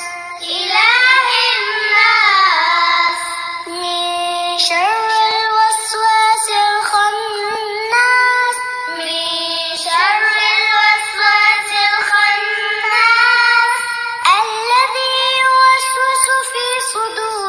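A child's high voice chanting melodically, with long held notes that waver and glide between pitches.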